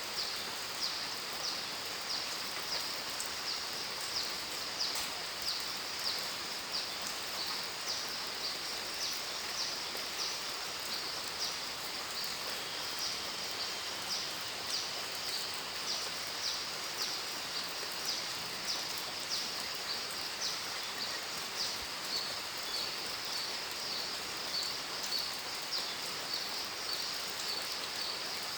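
Steady rain falling, with a high chirping call repeating about twice a second over it; the chirps grow shorter near the end.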